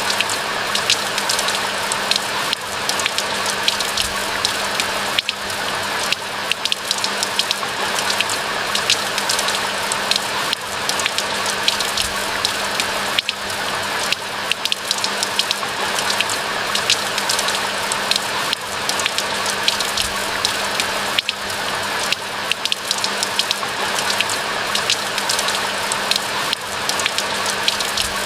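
Steady rain falling in a pine forest: an even hiss, thick with the sharp ticks of individual drops striking close by.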